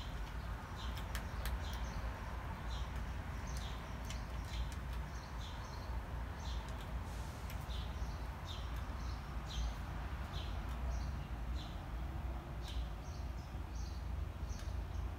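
A small bird chirping over and over, short high chirps about once a second, over a steady low background rumble.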